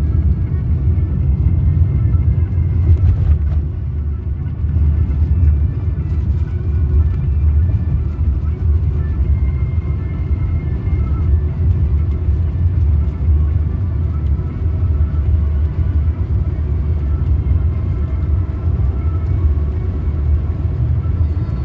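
Steady low rumble of a vehicle in motion, with faint music underneath.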